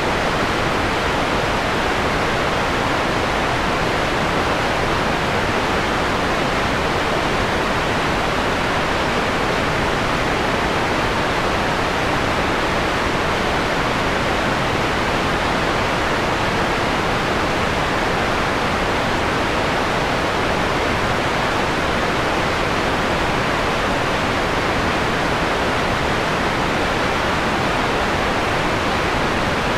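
Steady electronic white noise with its highs muted, a softer hiss than plain white noise: white noise partway through being dimmed from a bright to a mellow tone.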